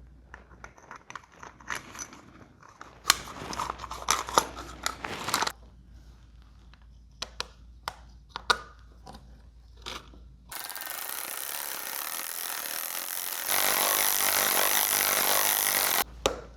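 Clicks, knocks and scrapes of carburetor parts and tools being handled as the carburetor goes back onto the outboard, then a steady loud hiss for about five seconds that steps louder partway and cuts off suddenly.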